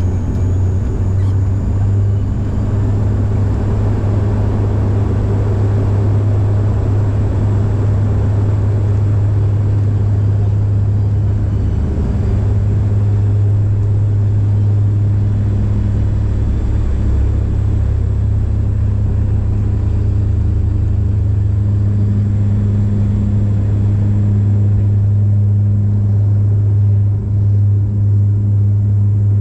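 Cabin noise of a Bombardier Dash 8 Q400 turboprop in flight: the steady low drone of its six-bladed propellers over the rush of engines and airflow.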